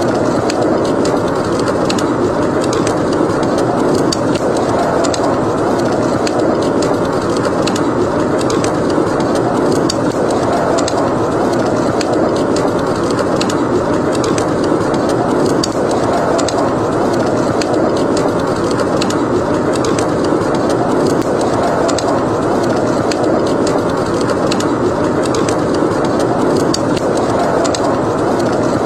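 Howling blizzard wind, a dense steady rush that rises and falls slowly, with the frequent small crackles of a burning wood fire.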